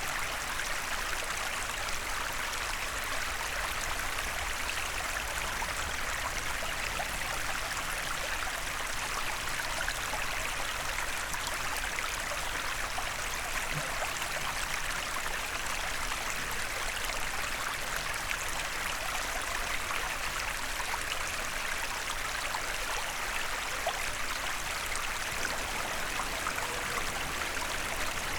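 A small forest stream babbling steadily over stones, a continuous rush of water with fine splashing and gurgles.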